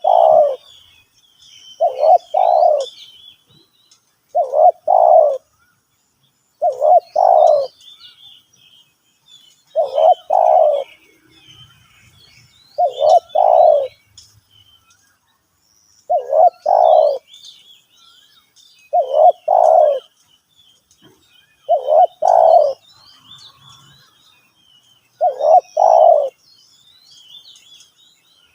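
Spotted dove cooing: a loud two-part coo repeated about every three seconds, ten times. Faint high chirps of small birds run underneath.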